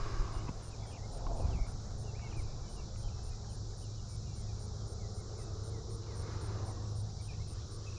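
Field insects chirping steadily, with a high pulse repeating about three times a second and fainter short chirps, over a low steady rumble.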